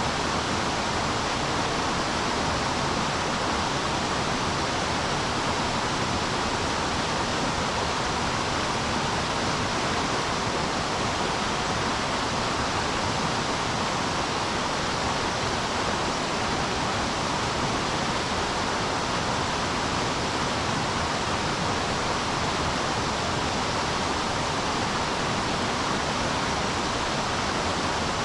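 Rushing river water, a steady even rush of flowing current with no other events.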